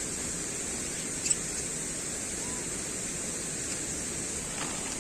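Steady outdoor background hiss with a single brief sharp click about a second in.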